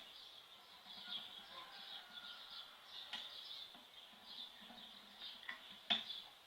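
Faint bird chirping, high-pitched and patchy, with a few light clicks; the sharpest click comes near the end.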